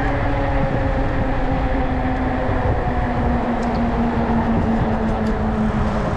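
E-bike's electric motor whining steadily over rumble from wind and tyres while riding, its pitch dropping a little about halfway through as the bike slows.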